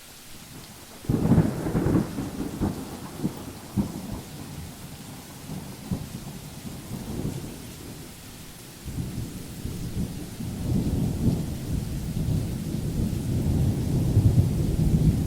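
Steady rain with rolling thunder: a loud rumble about a second in that dies away, then a longer rumble that builds from about nine seconds on.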